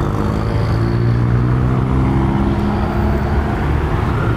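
Car engines running as cars roll past on the street: a steady low engine hum whose pitch shifts slightly as the revs change.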